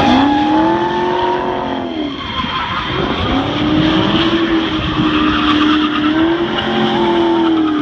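Holden VE Commodore SS-V's V8 engine held at high revs through a drift, with the rear tyres spinning and squealing. The revs dip about two seconds in, then climb back and hold.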